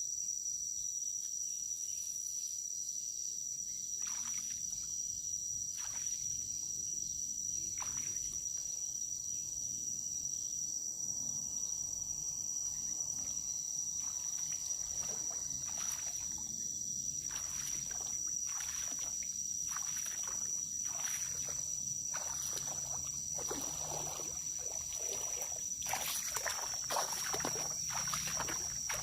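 Steady high-pitched insect chorus, such as crickets or cicadas, droning without a break. Scattered clicks and rustles come through it, growing more frequent and louder in the last few seconds.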